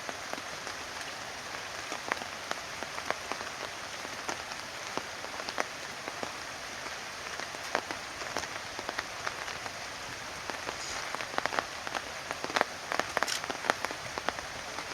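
Rain falling on a surface: a steady hiss with many irregular sharp drop ticks.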